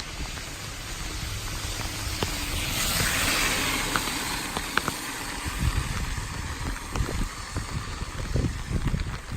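A car passing on a wet road: tyre hiss swells and fades about three seconds in, over steady rain. Low thuds of wind buffeting the microphone come and go in the second half.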